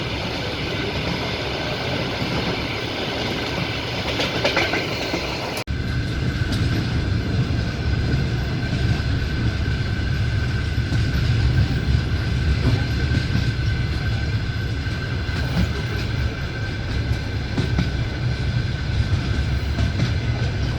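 Passenger train running along the line, heard from the carriage: a steady rumble with wheels clattering over the rails. About five and a half seconds in the sound breaks off for an instant and comes back deeper, with a faint steady whine.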